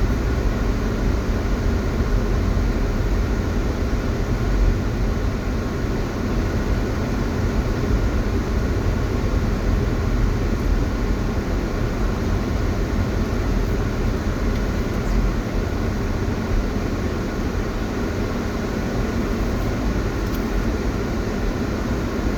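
Snowplow truck running with a steady low rumble.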